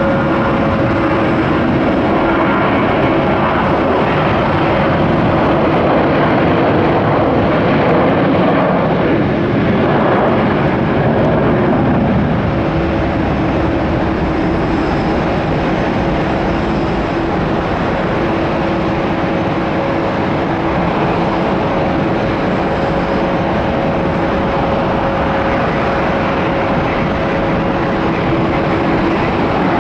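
A Boeing 737-800's CFM56 turbofan engines roar at take-off power: a loud, steady jet rumble with a humming tone running through it. About nine seconds in, the tone slides lower and fades, then returns a few seconds later.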